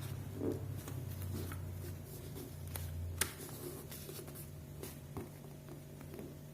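A sheet of paper being handled and folded, with scattered short rustles and creases and a sharper click about three seconds in, over a steady low hum.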